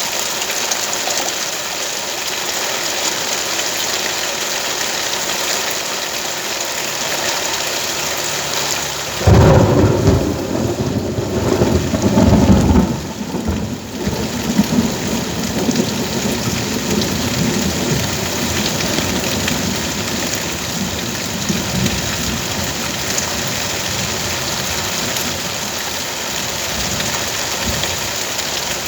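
Steady rain falling, with a loud low rumble that starts about nine seconds in and lasts about four seconds.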